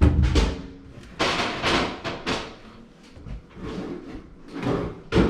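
Hand cleaning inside a microwave: a knock at the start, then several rubbing, scuffing passes of a rag over the interior.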